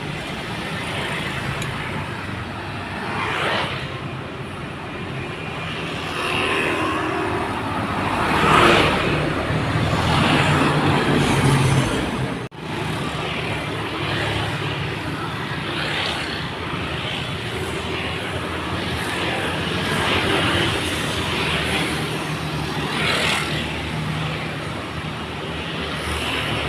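Heavy diesel trucks driving past on a wet road: engines running under load with tyre noise, swelling and fading as the vehicles pass. There is a brief cut-out about halfway through.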